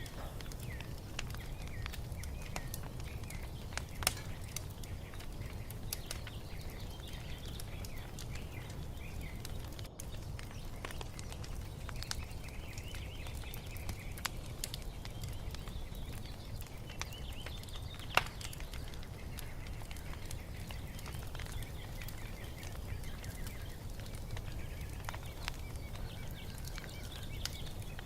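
Wood fire crackling with scattered pops over a low steady rumble, the sharpest pops about 4 and 18 seconds in, with birds chirping and singing in the background.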